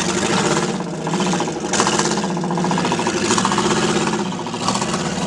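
Off-road competition truck's engine running hard, its pitch rising and falling as it is revved, with a louder surge about two seconds in.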